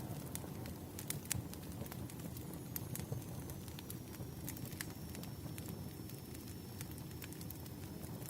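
Burning firewood crackling: a steady low rumble of flames with frequent sharp, irregular pops and snaps. A faint thin high whine runs underneath from about three seconds in.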